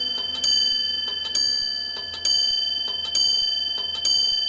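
Clock chime striking the hour, a bell-like stroke about every 0.9 s, five in this stretch, each ringing and fading before the next. They are the later strokes of the clock striking eight.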